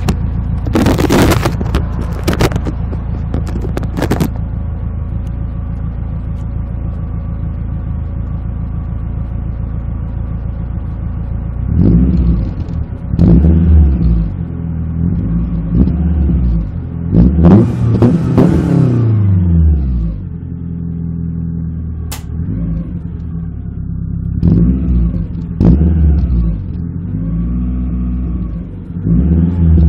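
Suzuki Swift GTi exhaust: the engine idles steadily after a few loud noisy bursts in the first seconds, then is blipped repeatedly. About halfway through comes one longer rev that climbs and falls back, followed by more short blips.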